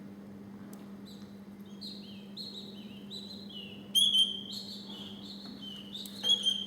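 Canary singing a series of rapidly repeated short notes, each phrase of syllables falling slightly in pitch, with louder strophes about four seconds in and near the end. A steady low hum sits underneath.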